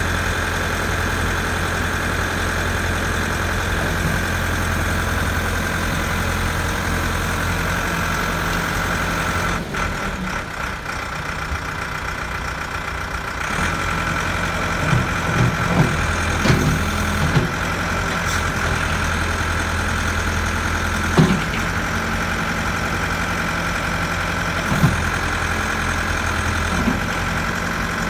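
JCB 3CX backhoe loader's diesel engine running steadily. The engine note drops for a few seconds about ten seconds in, and several short knocks or clanks come through from about halfway.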